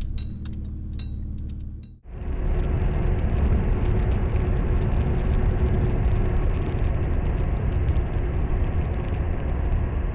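A few light clinks, then an abrupt cut about two seconds in to the steady rushing noise of a car being driven, engine and road noise together.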